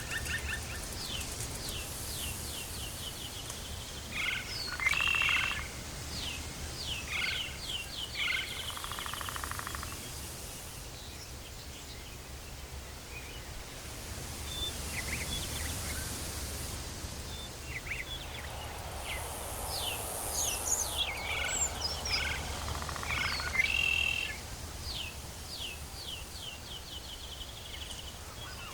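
Tropical forest ambience: birds calling in runs of quick, short repeated notes that come and go, over a steady low rumble.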